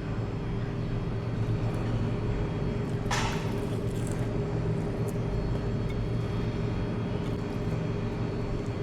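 Steady low rumble of road traffic with a constant hum underneath, and a short hiss about three seconds in.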